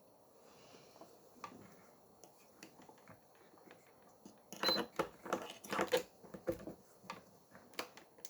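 Small clicks and taps of tools and parts being handled on a repair bench, with a louder burst of clattering knocks from about four and a half to seven seconds in.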